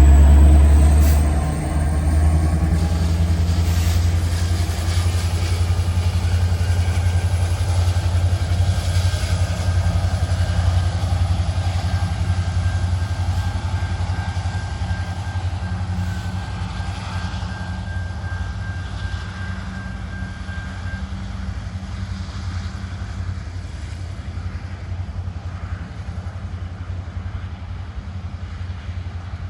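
Freight train rolling past and moving away: a loud diesel locomotive drone for the first second or so, then the steady low rumble of the train slowly fading. A faint steady high tone, typical of wheel squeal, runs through the middle.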